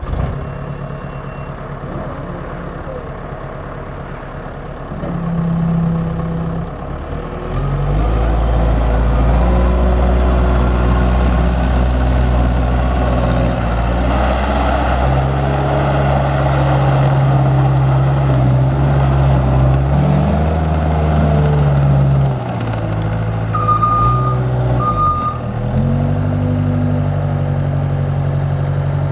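Cat 289C compact track loader's diesel engine running, raised to high revs about eight seconds in and held there with shifts in pitch, then dropping back to a steadier speed. Two short beeps sound near the end.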